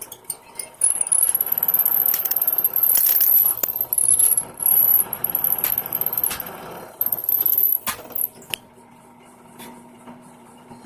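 A small high-pitched power tool working on the knife, running in several short spurts with a thin whine over a rough grinding noise, stopping at about eight and a half seconds.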